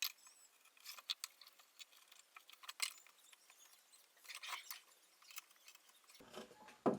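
Marking knife scoring lines into wood along a square: faint scratching strokes and light clicks of the knife and square, with a longer scrape about four and a half seconds in.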